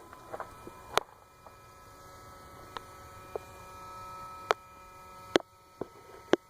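Electric fuel priming pump of a Jeep Liberty (KJ) CRD diesel buzzing steadily with the ignition key on before starting, with several sharp ticks over the steady hum. The owner worries it may be a part starting to die or a failing vacuum.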